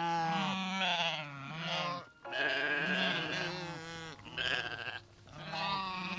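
Bleating livestock: about three long, wavering bleats in a row, one after another with short breaks between them.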